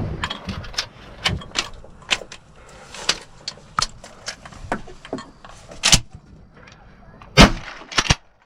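A string of irregular sharp clicks and knocks, two or three a second, with a few louder sharp hits near the end.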